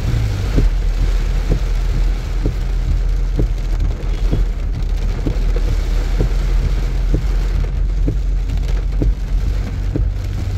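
Heavy rain drumming on a car's roof and windscreen while driving, heard inside the cabin, over a steady low rumble of the engine and road. Scattered sharp drop impacts stand out about once a second.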